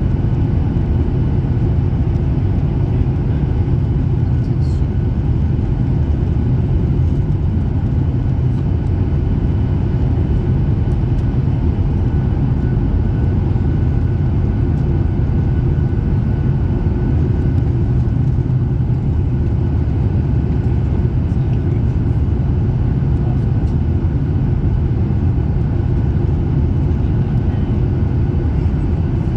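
Steady low rumble of a Ryanair Boeing 737 heard from inside the passenger cabin, with faint steady whine tones from the engines above it.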